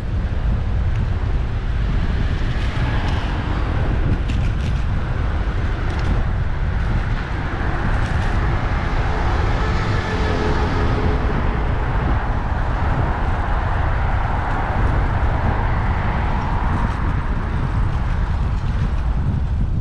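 Wind rumbling on the microphone of a bicycle-mounted camera while riding, with road traffic going past.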